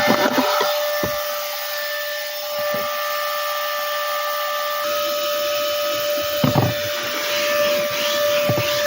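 Cordless handheld car vacuum running with a steady high whine and airy hiss, with a few short knocks along the way.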